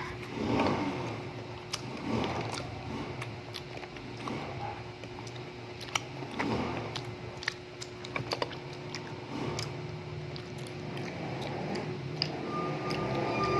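People chewing cola-bottle gummy candies, with scattered small clicks and wet mouth sounds over a faint steady hum. A brief high tone sounds near the end.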